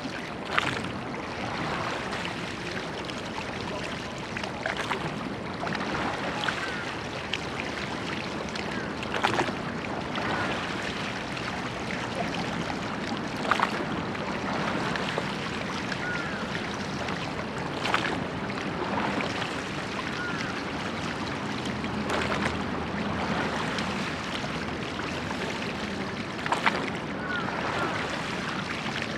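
A church boat being rowed: the crew's oars make a short sharp stroke sound together about every four to five seconds over a steady rush of water and wind.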